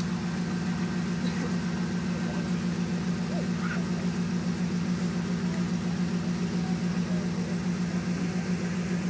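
Range Rover's LS1 V8 engine idling steadily with a regular, even pulse.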